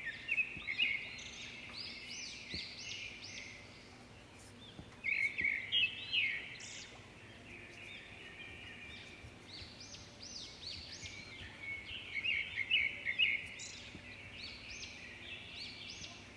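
Small birds chirping in repeated bursts of quick, high chirps, with quieter spells between.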